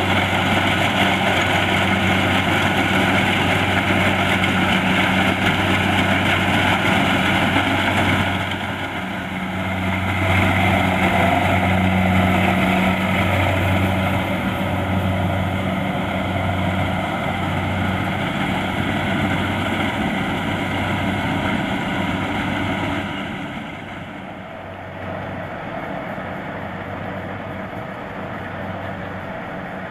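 Kubota DC-70 Plus rice combine harvester running steadily, a diesel engine hum with a slight pulsing beat under the clatter of its machinery. It dips briefly about eight seconds in and grows quieter and duller about 24 seconds in.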